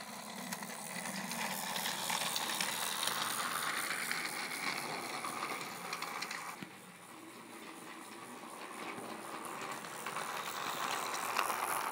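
Battery-powered Trackmaster 2 Thomas toy engine running on plastic track, its motor and wheels rattling along, getting louder, fading about halfway through and coming back louder near the end as it goes round the layout. A clicking runs with it that the owner can't place, and guesses may be the activation tab sitting too close to the gear.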